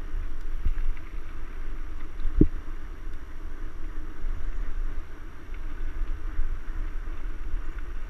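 Mountain bike being ridden over rough trail: a steady low rumble of wind and riding noise on the microphone, with a sharp knock about two and a half seconds in and a fainter one near the start.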